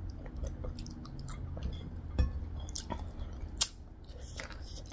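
A person chewing a hand-fed mouthful of rice and meat, with small wet mouth clicks and smacks and one sharper click about three and a half seconds in.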